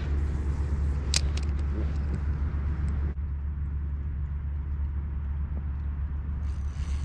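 A steady low rumble, with a few short sharp clicks about a second in.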